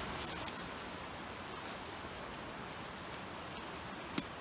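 Steady rush of a nearby creek, with a few faint ticks and one sharp click about four seconds in.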